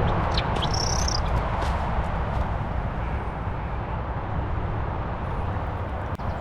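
Steady wind rumble on the microphone, with a few brief, thin high-pitched chirps in the first two seconds.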